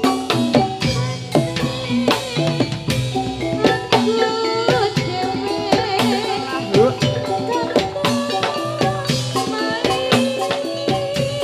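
Jathilan dance music: quick, busy drum strokes over ringing tuned percussion notes, with a wavering held melody line in the middle.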